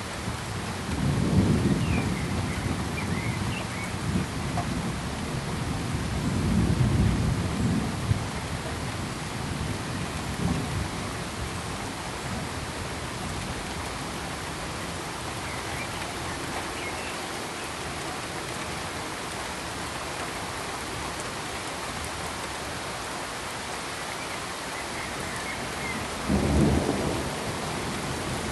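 Steady rain-like hiss with low rumbles of thunder: one about a second in, a longer one around six seconds in, and a short one near the end.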